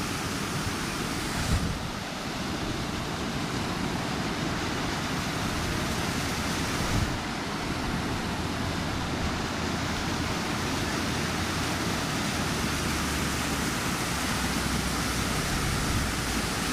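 Steady rush of water from a waterfall, with two short knocks about one and a half seconds in and about seven seconds in.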